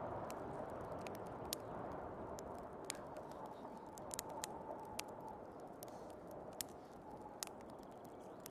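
Crackling fireplace, with sharp scattered pops of burning wood every second or so, over a steady rushing snowstorm wind. A faint whistle of wind rises in the middle.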